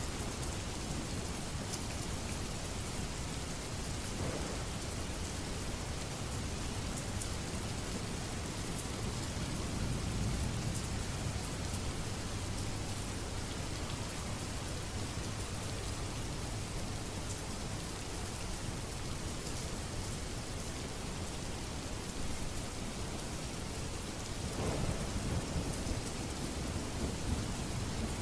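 Steady rain, a dense hiss with fine ticks of drops. Low rolls of distant thunder swell up about ten seconds in and again near the end.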